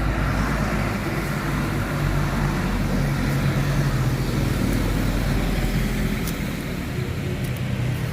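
A road vehicle's engine running steadily as a low hum, over traffic noise.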